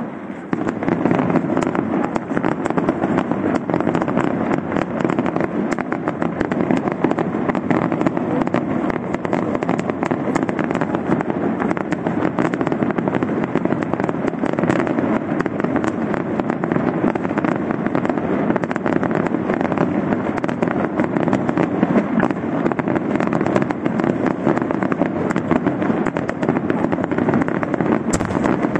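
Aerial fireworks display going off in a dense, unbroken barrage: shell bursts and crackling run together into one continuous loud noise with no gaps.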